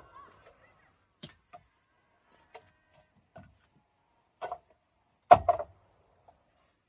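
Scattered wooden knocks and clacks of firewood being handled, with a louder quick double knock about five seconds in.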